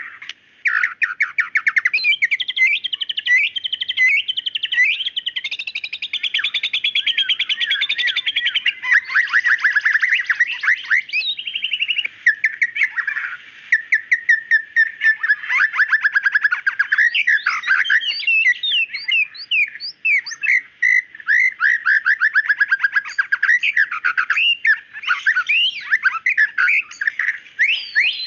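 White-rumped shama (murai batu) in full song: a long, varied stream of sharp whistled notes and fast trills, barely pausing.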